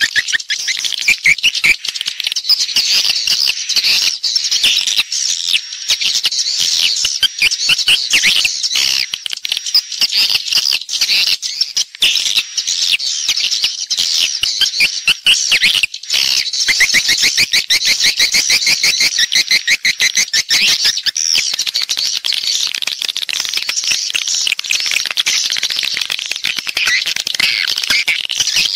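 Edible-nest swiftlets calling: a dense, continuous chorus of high chirps and twitters with rapid clicking throughout, the roosting ('inap') call played to lure swiftlets into nest houses.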